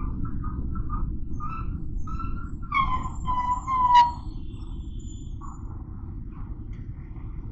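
Motorcycle ride in city traffic: a steady low engine and road rumble, with short horn beeps near the start and a longer horn honk about three seconds in that dips slightly in pitch and ends in a sharp click.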